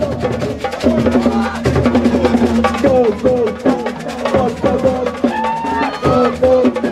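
Drums beating a rhythm while voices sing or chant over them.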